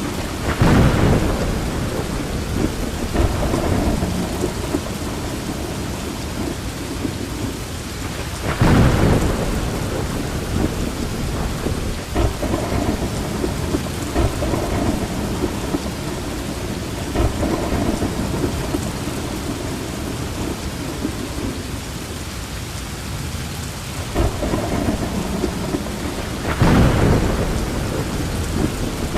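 Steady heavy rain falling, with thunder rumbling through it; the thunder swells up louder three times: about a second in, around nine seconds, and near the end.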